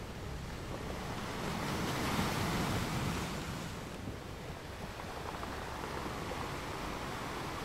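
Wind buffeting the microphone over choppy water lapping: a steady rushing noise with a gusty low rumble and no distinct events.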